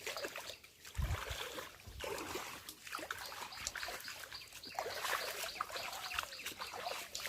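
Water trickling and splashing steadily, with a brief low bump about a second in.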